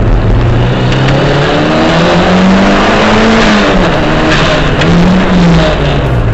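Toyota SW20 MR2's mid-mounted engine heard from inside the cabin while lapping a track: the revs climb and fall back twice as the driver accelerates and lifts through corners.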